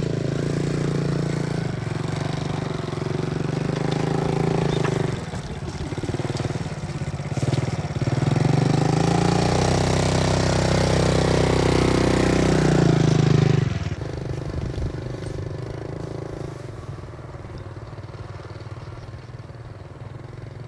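A small engine running: a steady hum that wavers for a few seconds, then runs louder with its pitch sweeping from about eight seconds in, and drops abruptly to a quieter, steady run about fourteen seconds in.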